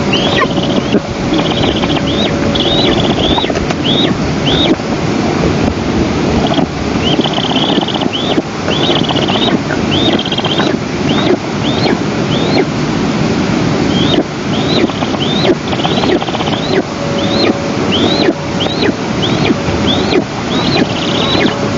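Eastern imperial eagle nestling giving repeated short, high, upward-hooked begging calls, with a few buzzy trills, while prey is brought to the nest. Steady wind rushes on the nest-camera microphone throughout.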